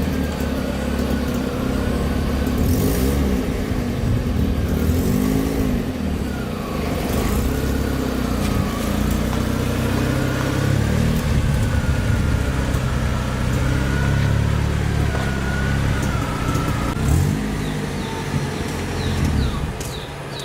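A motor vehicle engine running steadily, with a thin wavering whine above it.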